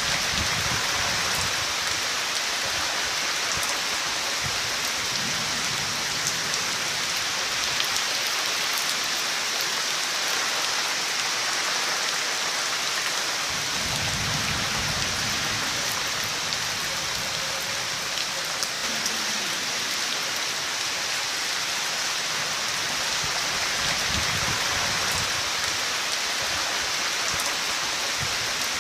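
Heavy rain falling steadily in a thunderstorm, a dense even hiss of drops striking surfaces. A few low rumbles rise and fade several times underneath.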